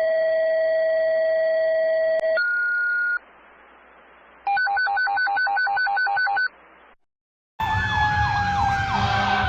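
Electronic alert tones: a long steady tone, then a shorter higher tone, then after a pause a rapidly pulsing two-pitch tone. After a short silence, about three-quarters of the way in, a fire truck siren starts wailing loudly over a low engine rumble.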